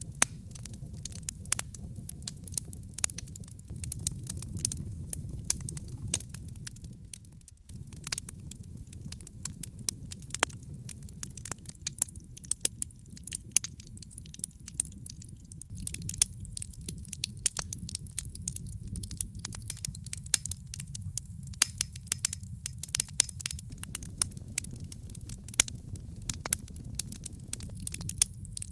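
Wood fire crackling in a fireplace: many irregular sharp pops and snaps over a low steady rumble, which briefly dips about seven seconds in.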